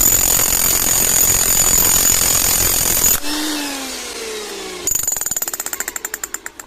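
Hilti TE 80 rotary hammer running flat out, switched off about three seconds in and winding down with a falling whine. It is triggered again briefly near the end, and its hammer blows slow and fade as it coasts to a stop.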